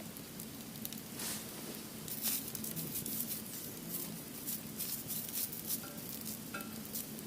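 Wood fire burning, the firewood crackling and popping irregularly with many small snaps.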